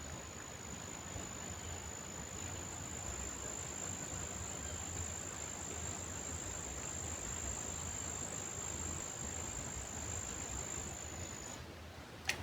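An insect trilling on one steady high note that cuts off suddenly near the end, over a steady background rush. A single sharp click follows just after.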